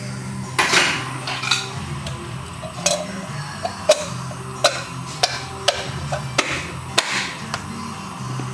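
Tools knocking and clinking in a repair shop: about ten sharp, separate knocks at uneven intervals over a low steady hum.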